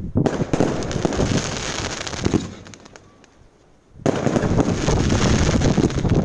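Fireworks going off in a rapid, dense run of bangs and crackles, which stops for about a second and a half in the middle, then starts again just as loud.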